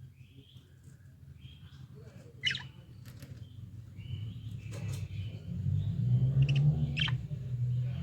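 Budgerigars chirping and chattering in short calls, with a couple of sharper, louder calls, over a low steady hum that grows louder in the second half.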